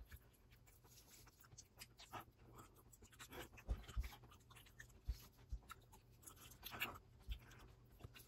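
Faint chewing and mouth sounds from someone eating a giant solid Hershey's milk chocolate bar. They come with scattered small clicks, a few soft thumps, and one louder breathy noise about two-thirds of the way through.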